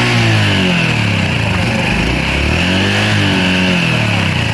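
Honda Super Cub's single-cylinder four-stroke engine revved twice on the spot in neutral. Each blip of the throttle rises and falls back toward idle.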